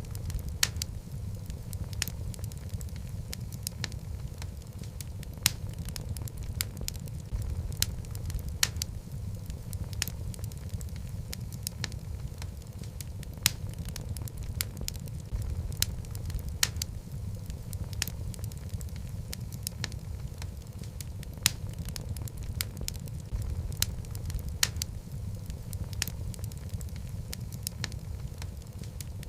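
Wood fire of burning logs in a fireplace: a steady low rumble of the flames with frequent sharp, irregular crackles and pops.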